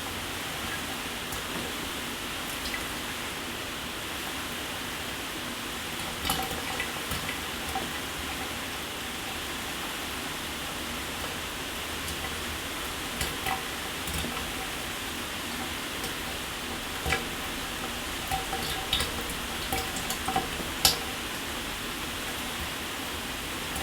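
Shower water spraying steadily, a continuous hiss, with scattered sharper drips and splashes, a cluster of them in the last few seconds.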